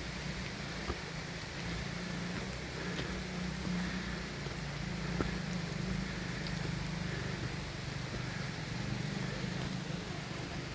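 Waterfall: falling water rushing steadily, with a couple of faint ticks.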